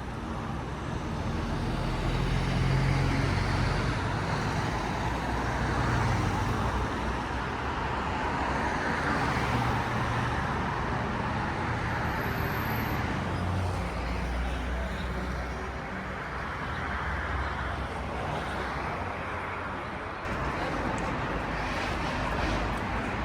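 Street traffic noise: a steady wash of passing cars, swelling and easing every few seconds.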